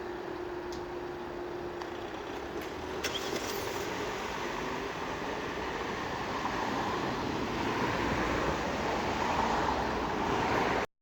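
Road traffic running over the level crossing, growing louder toward the end, with a steady hum that stops about two seconds in. The sound cuts off suddenly near the end.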